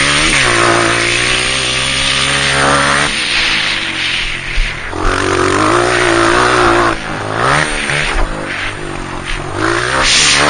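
Dirt bike engine on a motocross track, revving up and falling back several times as the throttle opens and closes, over a steady rushing noise.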